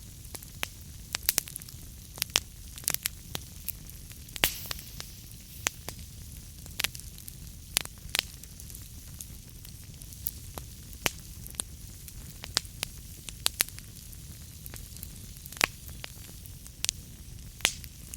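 Wood fire burning in a fireplace: a steady low rumble with irregular crackles and sharp pops of burning logs, a few pops louder than the rest.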